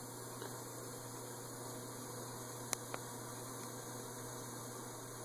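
GE Triton XL dishwasher running with a steady low hum and faint hiss, with two light clicks close together about three seconds in.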